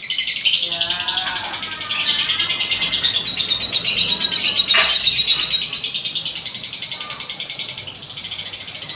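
Lovebird singing its long 'ngekek': a fast, rasping chatter of high notes that runs unbroken for about eight seconds, then drops away and goes on more quietly near the end.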